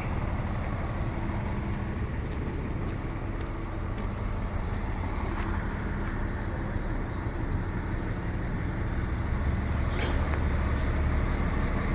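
Scania diesel engine of a coach running steadily, a low rumble that grows slightly louder toward the end.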